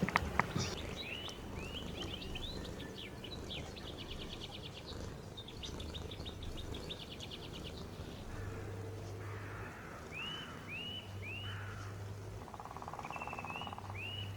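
Small songbirds chirping outdoors: repeated short chirps with rapid trills a few seconds in, over a steady low hum.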